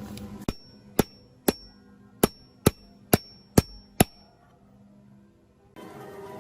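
Hammer striking metal, eight sharp blows about half a second apart, each leaving a short high ring, typical of tapping out or seating an engine part during restoration.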